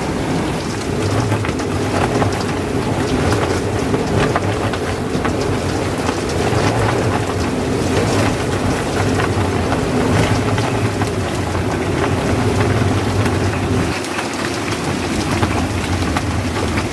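Gale-force wind blowing over and around an anchored sailboat, loud and unbroken, with a constant patter of many small ticks over a low rumble.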